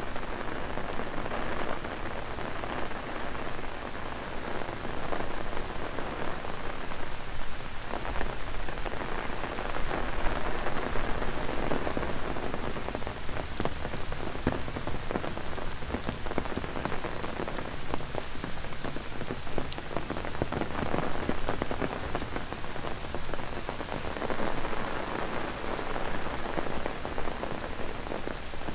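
Heavy rain drumming on an umbrella overhead, a dense, uneven patter of drops, heavier through the middle of the stretch, over a steady high hiss.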